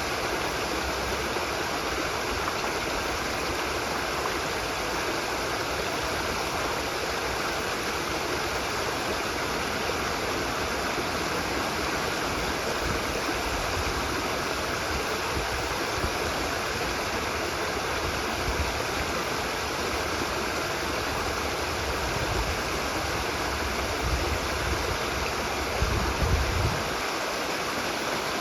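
Steady rush of a stream's running water, with a few low bumps near the end.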